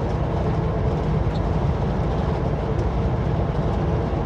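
Kenworth W900L semi truck's diesel engine and road noise, a steady low drone while the truck drives along the highway.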